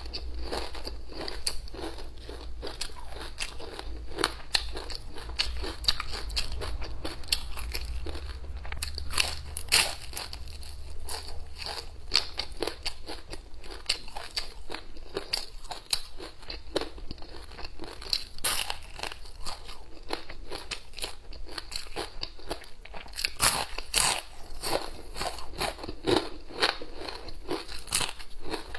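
Close-up eating sounds: a person biting and chewing crunchy food, with dense, irregular crackly crunches throughout.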